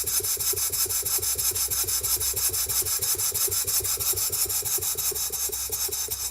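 Small stationary steam engine with a 1-inch bore and 1¼-inch stroke running steadily at about 5 psi supply pressure, its exhaust beating evenly about seven times a second with a hissing rasp.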